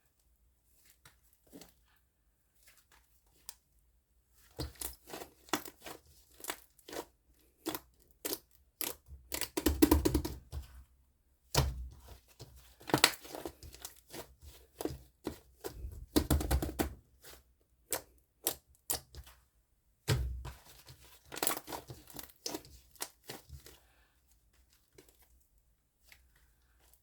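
Fluffy foam slime being squeezed and pressed by hand, giving irregular crackling, popping clicks and a few soft thuds. The crackling starts about four seconds in and dies away near the end.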